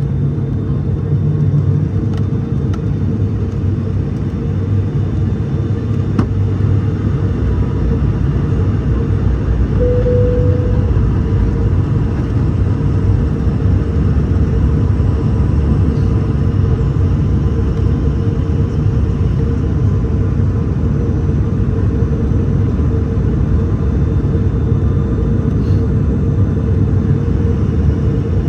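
Cabin noise of an ATR 72-600 turboprop: its two Pratt & Whitney PW127 engines and propellers make a loud, steady drone with a constant hum running through it.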